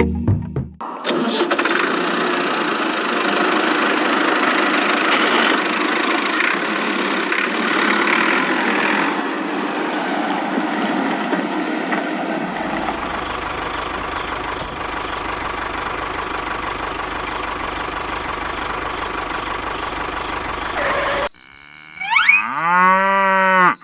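A small motor running steadily with a noisy whirr. Near the end a short tone sweeps up in pitch and back down.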